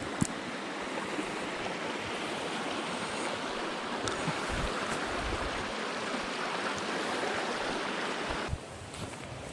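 Headwater mountain stream rushing over rocks, a steady rush of water. About a second before the end it drops suddenly to a quieter rush, and there is a single click near the start.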